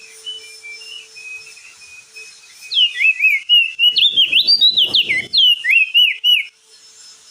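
Crested dark-eye (opior jambul) singing: soft short chirps, then from about three seconds in a loud burst of quick whistled notes sweeping up and down, lasting about four seconds.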